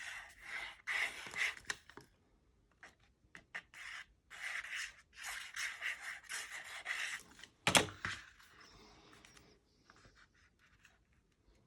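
Cardstock rubbing and sliding against paper and the tabletop in several bursts as a layer is pressed onto a card, with one sharp knock about eight seconds in.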